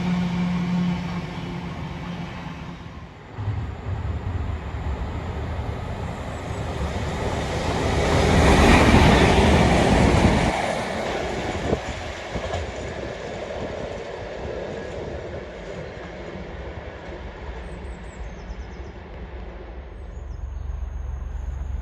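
A train passing: an engine hum at first, then the rushing rumble of wheels on rails. The rumble builds to its loudest about nine seconds in and cuts off suddenly, after which a quieter rumble carries on.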